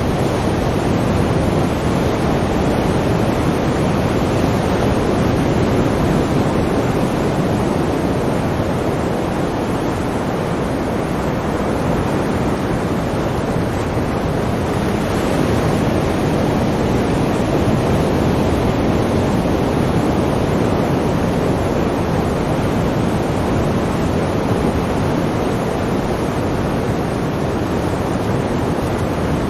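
Sea waves washing in a steady, continuous rush, with a gentle swell about halfway through.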